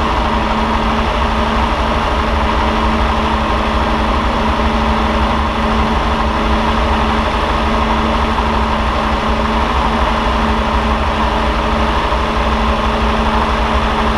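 1962 Ferrari 250 GT/E's freshly rebuilt 3-litre V12 idling steadily, heard close over the open engine bay.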